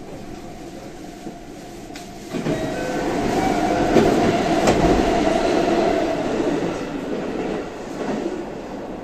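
A JR West 323 series electric train running, heard from inside the car: wheels rolling and clattering on the rail, with short steady tones from its Mitsubishi full-SiC VVVF inverter. The noise swells about two seconds in and eases off toward the end.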